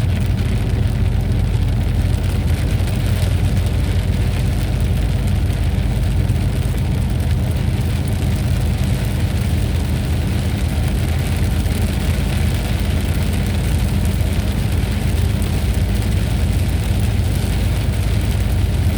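Steady thunderstorm noise: an even wash of rain with a continuous heavy low rumble underneath.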